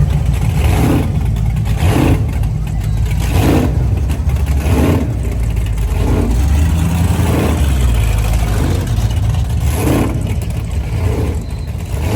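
A car engine running loud and low, with a swell in its sound about every second or so.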